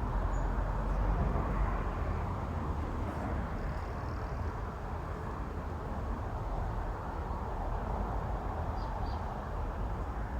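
Steady rumble and hiss of road traffic on the bridge overhead, with a couple of faint high chirps.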